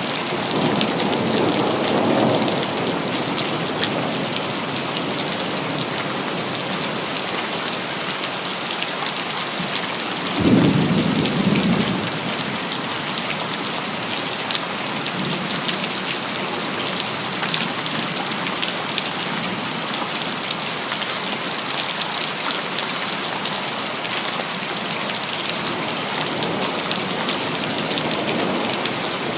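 Steady rain pattering down, with rolls of thunder: a low rumble in the first couple of seconds and a louder thunderclap about ten seconds in that fades over a second or two.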